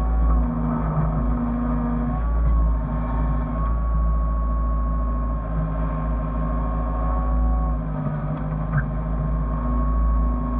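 Hyundai excavator's diesel engine running steadily under a deep rumble, with a high whine that dips briefly about eight seconds in.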